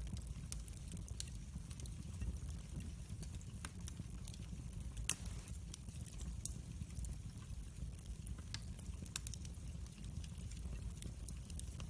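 Wood fire crackling, with frequent small pops and one louder pop about five seconds in, over a low steady rumble.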